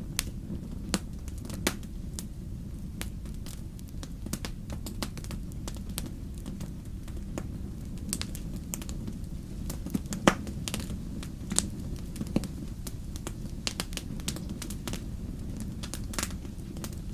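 Wood fire burning, with a steady low rumble of flames and irregular sharp crackles and pops, the loudest about ten seconds in.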